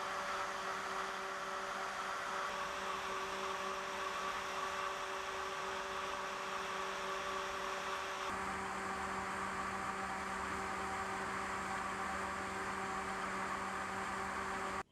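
Steady mechanical hum and whir with a few held tones, like large machinery or fans running. The tones shift slightly about eight seconds in, and the sound cuts off abruptly at the end.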